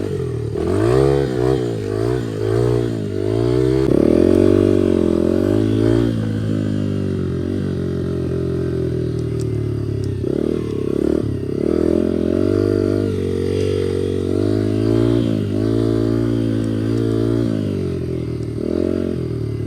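2003 Honda XR80 dirt bike's single-cylinder four-stroke engine, exhaust baffle removed, being ridden on a trail: the engine note swings up and down with the throttle, several quick revs in the first few seconds, then steadier running with brief drops in revs.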